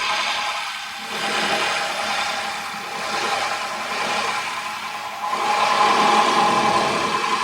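Engine of heavy machinery running, its level rising and falling, then louder with a steady whine from about five seconds in.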